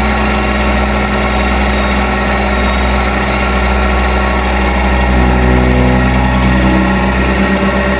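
Case 580B backhoe's engine running steadily, its pitch shifting slightly near the end.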